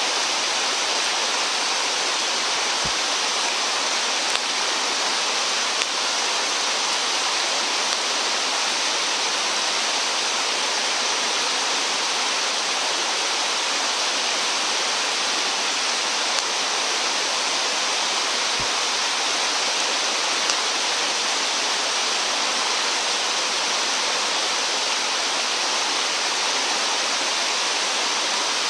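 Stream water rushing steadily, an even hiss with no let-up.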